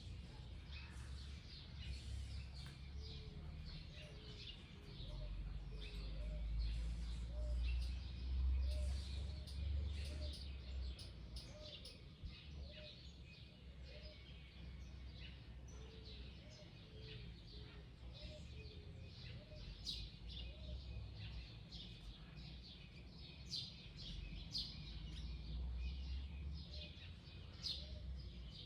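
Wild birds chirping and calling, with many short high chirps throughout and a soft low note repeated over and over through the middle. A low rumble swells between about five and eleven seconds in.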